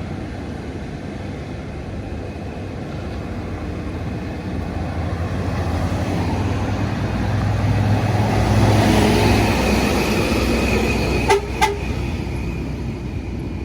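Heavy truck passing with its diesel engine running, the sound swelling to a peak and easing off, then two short horn toots near the end.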